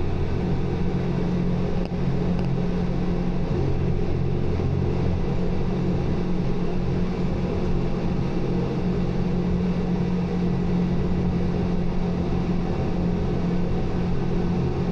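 Steady low rumble of a running vehicle, even in loudness throughout.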